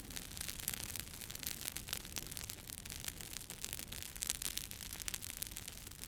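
Wood campfire burning, with rapid, irregular crackles and pops over a steady hiss.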